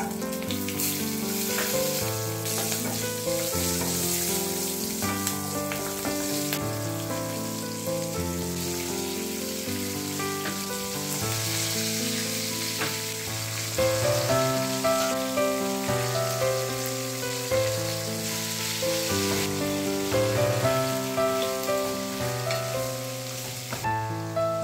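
Shallots, then carrot, drumstick and bean pieces sizzling in hot oil with dried red chillies and curry leaves in a non-stick kadai. The sizzle dies down near the end. Melodic background music plays over it.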